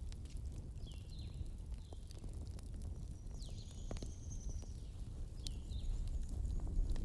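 Wood bonfire burning: scattered crackles and sharp pops over a low, steady rumble, with repeated short high chirps in the background.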